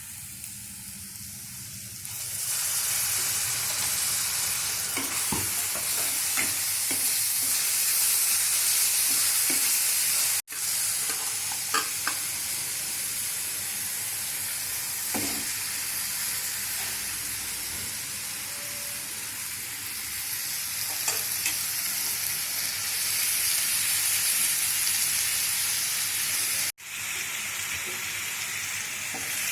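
Hot oil sizzling steadily in a pan as food fries, with scattered light clicks of stirring. The sizzle swells about two seconds in and cuts out for an instant twice.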